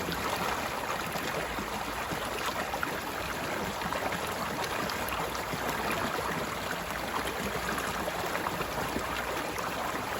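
Mountain stream flowing over rocks: a steady rush of water with fine splashing and burbling.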